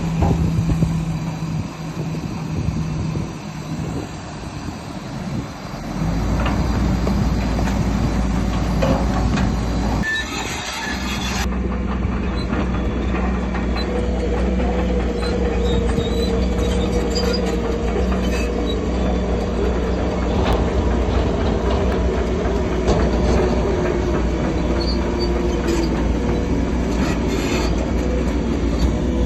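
Heavy diesel engine of a crawler bulldozer running under load, with its steel tracks clanking and squealing. The engine grows louder about six seconds in.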